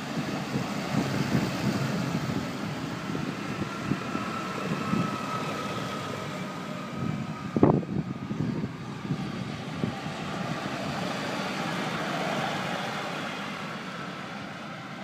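Tractors driving past one after another, their diesel engines running, with a single sharp bang about halfway through that is louder than the rest.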